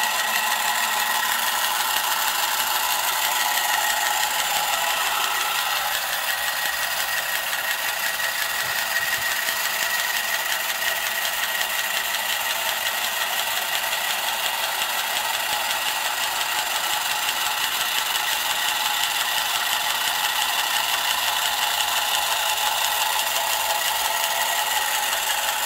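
1965 Marx Moon Scout battery-operated tin toy helicopter running: its small electric motor and gear train whir and rattle steadily, with a constant high whine. The owner guesses the gears are wearing out inside because they don't appear to mesh as well as they should.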